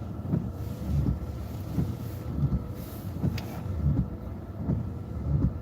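Low rumble of the chase vehicle with a faint steady hum, broken by irregular dull thumps.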